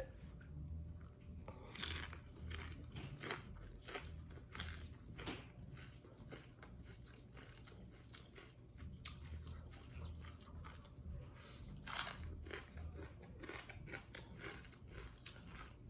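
Close-up crunching and chewing of a deep-fried shrimp-and-taro fritter wrapped in lettuce and herbs: irregular crisp crunches, the loudest about two seconds in and again near twelve seconds.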